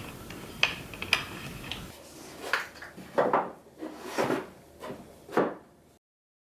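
Wooden drawer being handled: a few sharp clicks, then about four short sliding knocks and scrapes. The sound cuts off abruptly near the end.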